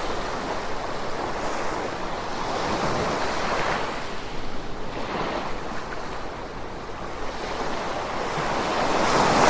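Gentle ocean waves washing in, the surf rising and falling in swells every second or two, with one larger wave building louder near the end.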